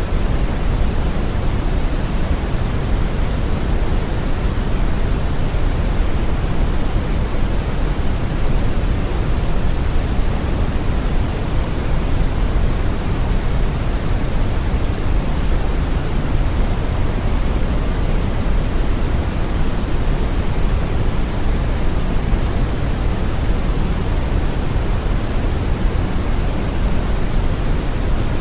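Steady brown noise, a deep, even rumbling hiss with most of its weight in the low end, unchanging throughout.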